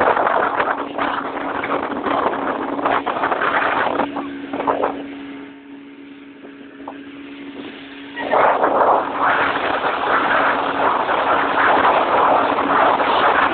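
Motorboat engine running steadily with wind and water rushing past. The rushing dies down for a couple of seconds in the middle, leaving the engine hum, then comes back louder.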